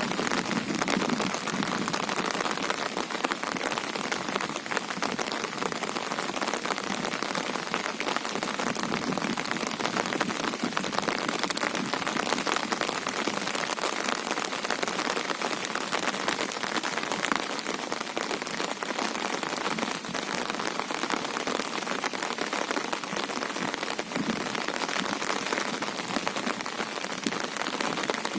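Steady monsoon rain falling on and around a river, a dense even patter with no let-up.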